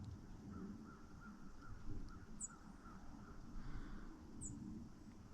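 Faint outdoor bird calls: a run of short chirps repeating about twice a second, and two thin, high, down-slurred notes, over a low rumble.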